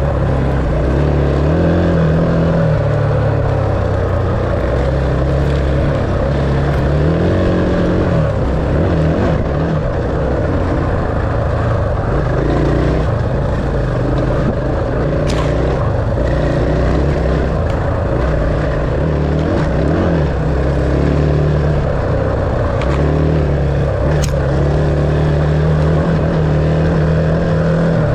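Dirt bike engine running while riding, its pitch stepping up and down with throttle and gear changes.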